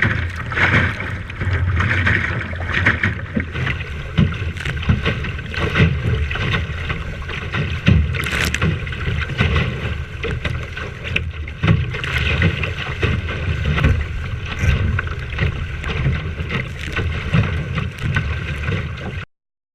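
Wind buffeting the microphone on a small sailing boat, a gusting rumble over water rushing and splashing against the hull, with scattered knocks. It cuts off suddenly near the end.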